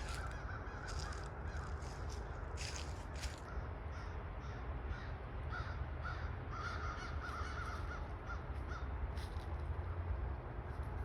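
Birds giving many short, harsh calls in quick succession over a steady low rumble.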